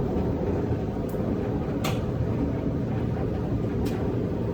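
Candy 10 kg tumble dryer running at the start of a drying cycle: a steady low rumble of the turning drum and fan, with a few faint clicks.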